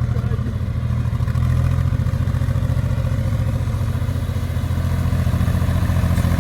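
Diesel tractor engine running steadily, a low, even throb.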